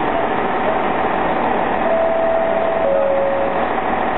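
A train running: a steady, even noise, with two short faint steady tones about two and three seconds in.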